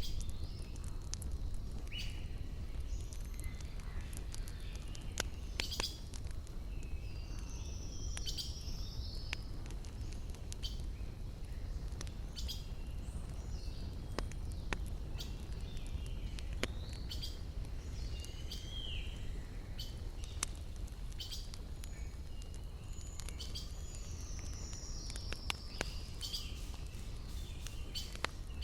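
Wood fire crackling with scattered sharp pops, while birds chirp and whistle in short repeated phrases, over a steady low rumble.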